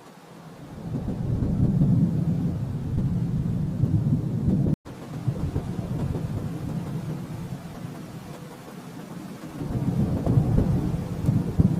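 Distant thunder rolling: a low rumble that swells up over the first couple of seconds, slowly dies away, then builds into a second roll near the end. A little before the middle, the sound cuts out completely for an instant.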